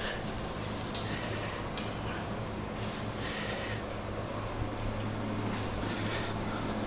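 Short scrapes and clatters of scrap parts being handled and sorted, several times, over a steady low hum.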